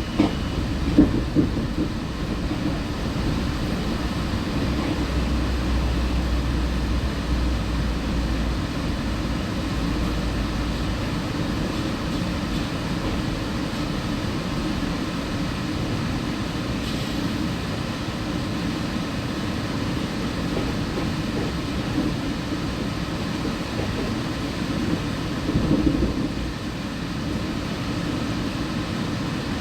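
Cabin sound of a Walt Disney World Mark VI monorail train under way: a steady rumble and hum of the car in motion. A deeper low rumble fades out about ten seconds in.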